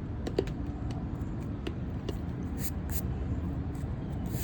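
Wax paper wrapper of a 1987 Topps wax pack and its cards crinkling and rustling as the pack is handled, a handful of short crackles over a steady low hum.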